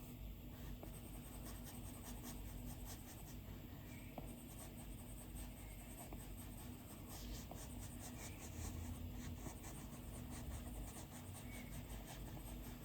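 Stylus tip scratching and tapping on an iPad's glass screen in many quick, short strokes of drawing.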